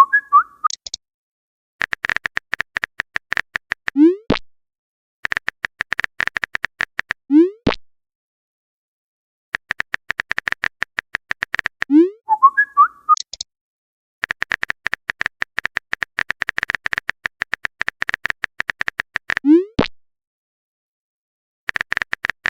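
Phone-chat sound effects: bursts of rapid keyboard typing clicks lasting a few seconds each, every burst ending in a short rising "bloop" message-sent tone. Twice, just after the start and about twelve seconds in, a higher chirping message-received tone sounds. There is dead silence between bursts.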